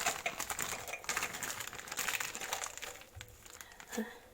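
Plastic bag crinkling and rustling as it is handled, a makeshift piping bag full of whipped cream. The dense crackle thins out after about three seconds, and there is one sharp tap near the end.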